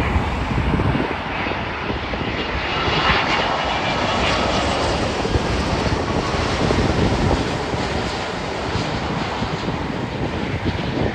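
Jet engines of a landing Boeing 787 Dreamliner: a loud, steady rushing roar that swells a few seconds in and again around the middle.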